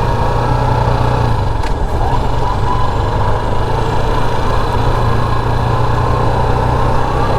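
Motorcycle engine running steadily while riding, a constant low hum with road noise over it.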